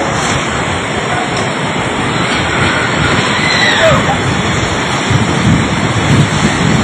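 Rushing floodwater: a loud, steady roar of water, with wind on the microphone and a brief raised voice a few seconds in.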